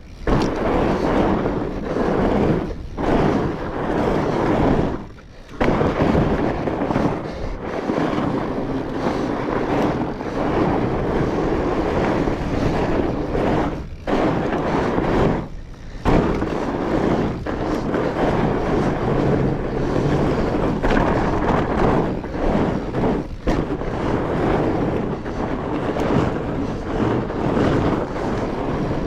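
Fat bike riding over a snowy trail: continuous rough noise of tyres rolling and crunching over snow, mixed with wind on the microphone. The noise drops out briefly a few times, about five seconds in and twice near the middle.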